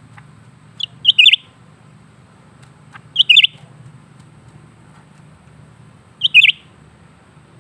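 A cucak ranting, a leafbird, giving short phrases of sharp, high chirps. There are three quick bursts of a few notes each, spaced about two to three seconds apart.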